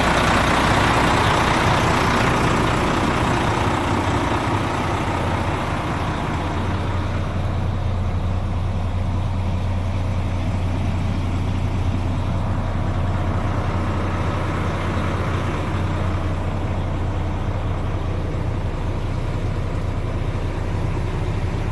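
Renault Premium Lander 450 tractor unit's diesel engine running, louder for the first few seconds, then settling to a steady idle.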